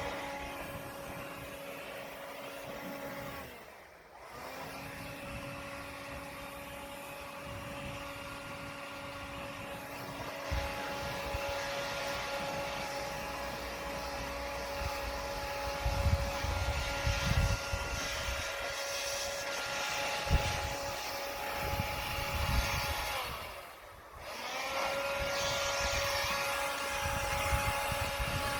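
Blower clearing snow, running at a steady high whine. The throttle is let off twice, about four seconds in and again near the end, and the pitch sinks and quiets before coming back up. Some low rumbling bumps come in the middle.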